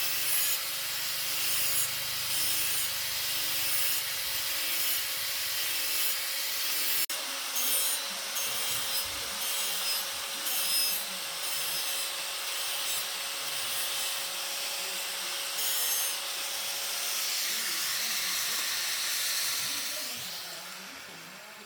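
Steady abrasive rubbing, fading out near the end.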